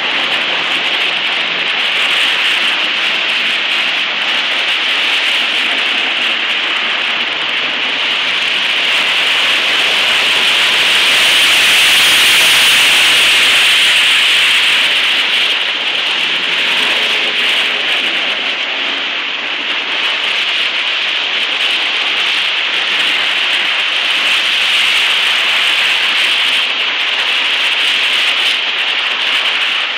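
Cars and a box truck driving through flood water across a street, their tyres throwing spray in a steady splashing hiss. The hiss swells for a few seconds near the middle as the truck pushes a wave of water close by.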